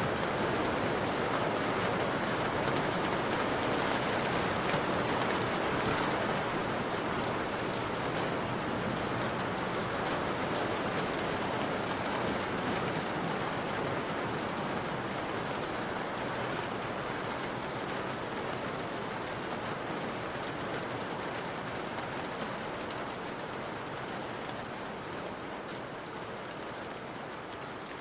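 Steady rain falling on a window pane, a dense hiss of drops, slowly fading lower throughout.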